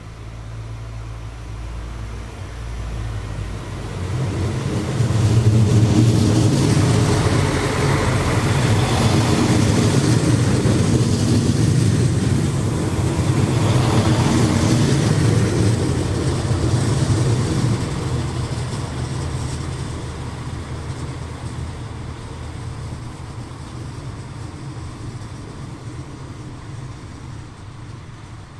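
A train passing: the rumble builds, runs loudest with a low steady hum for about ten seconds, then fades away slowly.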